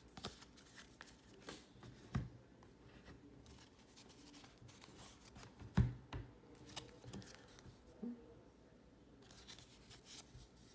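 Trading cards handled by hand as a stack is flipped through: soft sliding with scattered light taps, the loudest about six seconds in.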